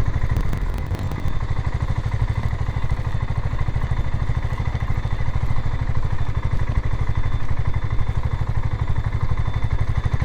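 BSA Gold Star 650 motorcycle engine running at low speed as the bike is ridden slowly, with a steady, even exhaust beat.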